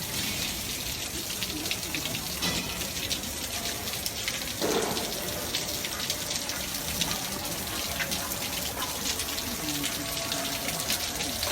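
Heavy rain pouring down, a steady, continuous rush of falling water.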